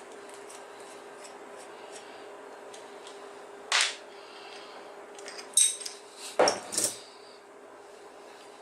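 A sharp clack a little under four seconds in, then a quick run of several louder clacks and knocks, like hard objects being handled and set down. A steady low hum runs underneath.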